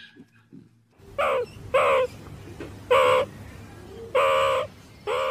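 An animal calling five times in short, pitched calls spaced about a second apart, starting about a second in, each dipping in pitch at its end.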